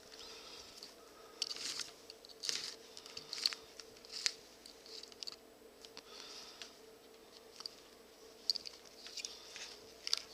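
Hand-sewing leather with artificial sinew: irregular short rasps and clicks as the needle and sinew are pushed and drawn through the leather.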